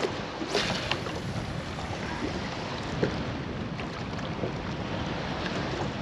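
Wind buffeting the microphone over steady water sounds, with a few small knocks and clicks, one about half a second in and another about three seconds in.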